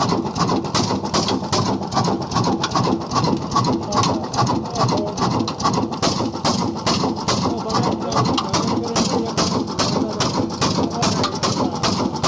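Old 26-horsepower black diesel engine running steadily, its exhaust beating evenly at about five beats a second.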